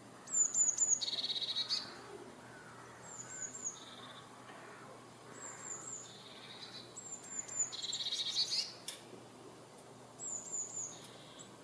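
Songbirds singing outdoors: one bird repeats a short phrase of a few high, falling notes that runs into a fast trill, about every two to three seconds, with fainter calls from other birds between phrases.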